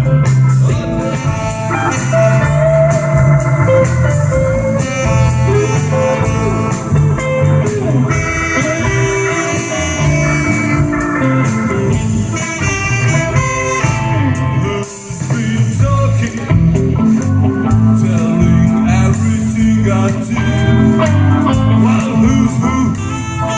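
A live blues band playing, with electric guitar, bass and drums and a singing voice.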